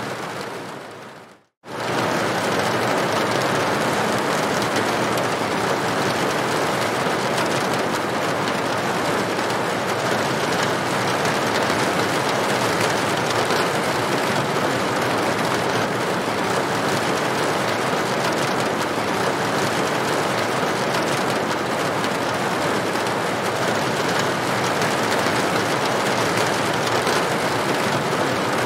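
Rain falling steadily on a tin roof. About a second in, the sound fades away to silence for a moment and then comes straight back at full level.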